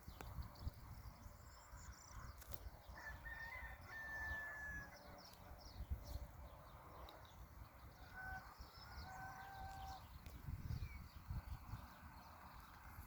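Rooster crowing faintly, twice, each crow a few seconds apart, over a low rumble.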